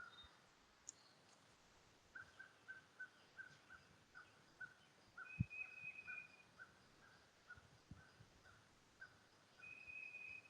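Faint outdoor birdsong: one bird repeats a short note about three times a second, and twice a higher, longer call is heard, near the middle and at the end. A soft low thump is heard a little past halfway.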